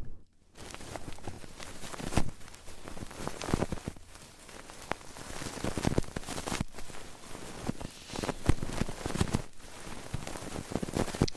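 Close-miked ASMR trigger sounds: dense, irregular crackling, scratching and tapping right on the microphone, in uneven clusters.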